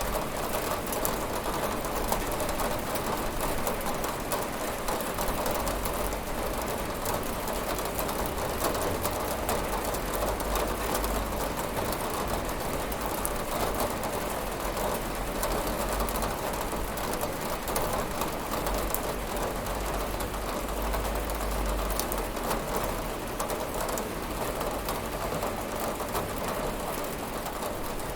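Steady rain pattering on a window pane, with a faint low rumble under it that swells and eases a couple of times.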